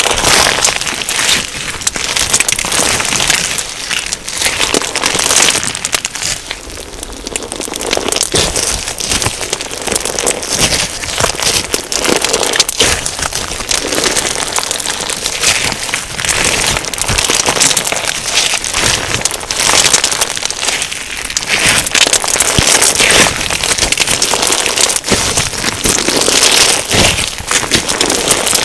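Clear slime packed with sugar beads being squeezed, pressed and stretched by hand, giving a dense, continuous crunchy crackling and popping, with a brief softer spell about six seconds in.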